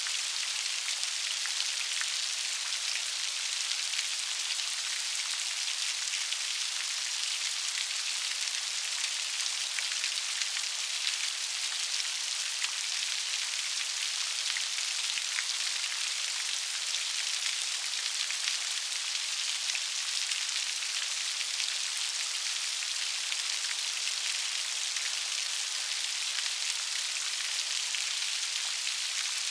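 Steady rain, a dense even hiss of drops with many small sharp patters, heavy in the high register and with almost no low rumble.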